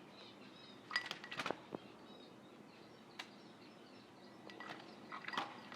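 Caique making faint clicks and short chirps in small bursts, about a second in and again near the end.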